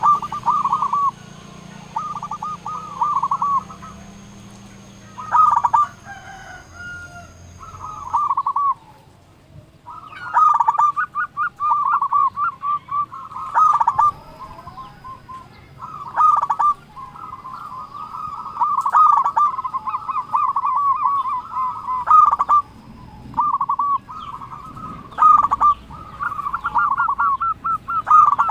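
Zebra dove (perkutut) cooing: phrase after phrase of quick, rolling notes at one pitch, with short breaks between.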